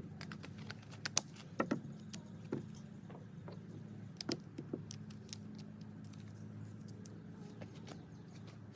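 Scattered light clicks and knocks of lumber and tools being handled and positioned over a steady low hum, busiest in the first half.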